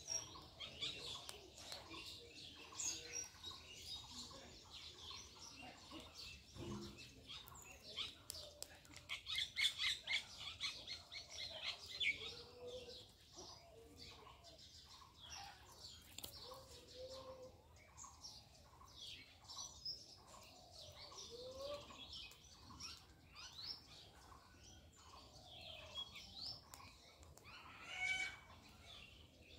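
Small birds chirping and calling, many short high chirps with a burst of quick trills around ten seconds in and a few lower calls scattered through.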